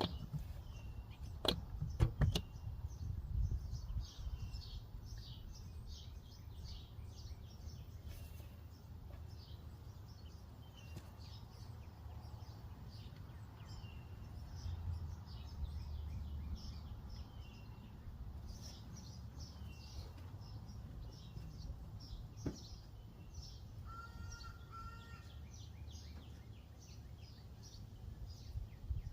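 Small birds chirping repeatedly over a steady low background rumble, with a few sharp knocks in the first couple of seconds.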